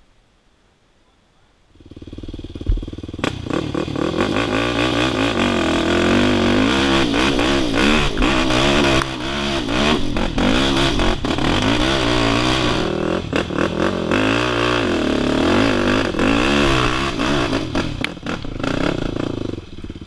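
Off-road motorcycle engine coming in about two seconds in and revving hard, its pitch rising and falling over and over, with knocks and clatter mixed in; it eases off near the end.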